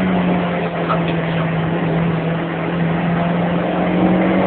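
Small car's engine running hard under load, heard from inside the cabin over road and wind noise, in a steady drone that dips a little in pitch and climbs again near the end.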